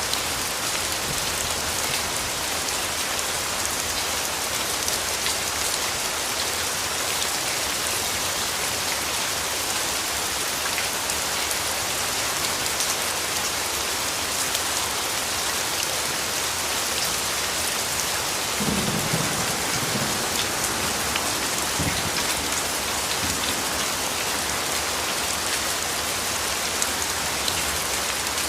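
Steady rain falling in a dense, even hiss. About two-thirds of the way through, a low rumble of thunder rolls in for a few seconds.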